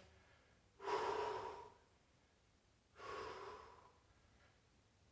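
A person breathing hard under exertion while holding a static bodyweight exercise: two long, breathy exhalations about two seconds apart.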